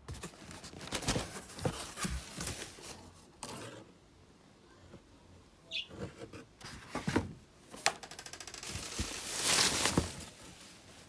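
Packaging being handled: irregular rustling and crinkling with knocks, and a brief rapid ripping sound about eight seconds in, like tape being pulled off.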